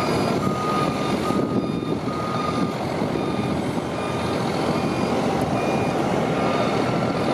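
Truck's reversing alarm beeping in a steady series of short tones over its engine running; the beeps grow fainter after about three seconds.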